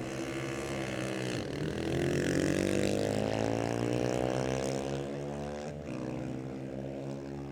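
Motorcycle engine accelerating: its pitch climbs for a second or two, about a second and a half in, then holds steady.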